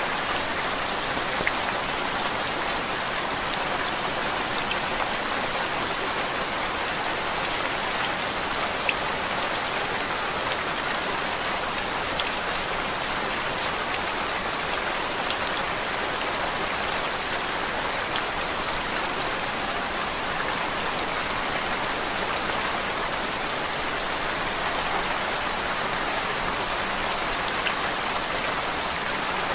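Steady rain falling on a surface, an even hiss with fine scattered drop ticks and no change in level.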